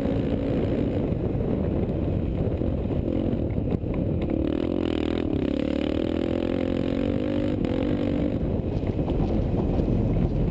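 Motorcycle engine running close by, its pitch climbing and easing off again through the middle as it is revved and throttled back.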